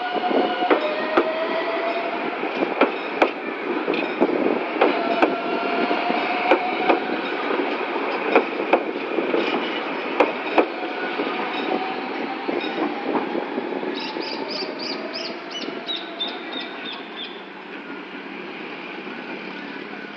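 Two coupled CAF electric multiple units pulling out and passing close by: a steady rumble with many sharp clacks of wheels over rail joints and the crossing, and a rising whine. The sound fades as the train draws away.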